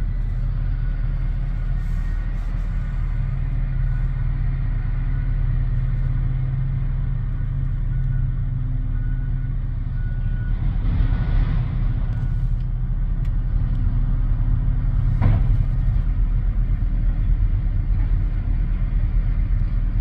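Heavy diesel mining machinery, a haul truck and a giant excavator, running with a steady low rumble. A rushing hiss comes about eleven seconds in, and one sharp knock about fifteen seconds in.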